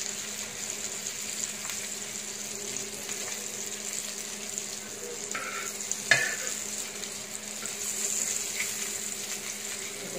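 Chicken kofta balls sizzling steadily as they shallow-fry in a little hot oil in a wide pan. A sharp click of a knife against the pan comes about six seconds in as the balls are turned.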